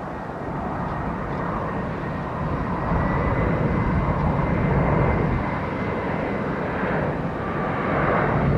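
Jet airliner passing close by during takeoff or landing: steady jet engine noise, with a faint high whine through the middle.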